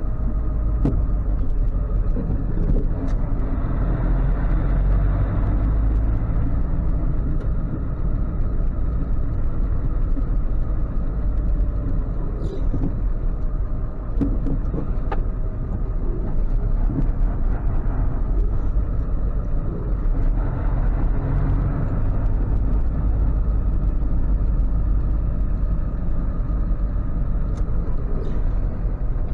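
Ford F550 tow truck driving: a steady low engine rumble with road noise that swells and eases a little as the speed changes.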